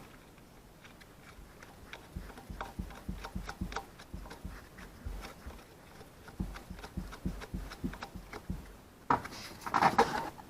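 Hand ratchet clicking in quick runs as the last ignition-coil hold-down bolt is run in and tightened, with a few light knocks, and a short rustling burst near the end.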